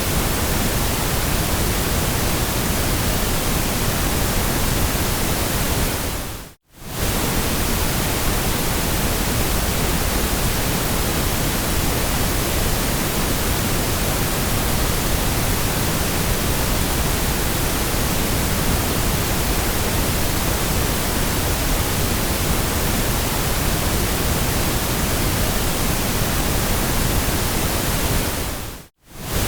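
Steady electronically generated white noise: an even, full-range hiss with slightly more weight in the low end. It briefly fades to silence and straight back twice, about six and a half seconds in and again near the end.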